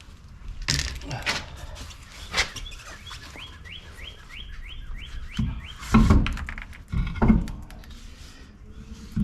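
Several hard knocks and thuds from working on an engine, the loudest about six and seven seconds in. A bird sings in the background, a quick run of short rising chirps about three a second in the middle.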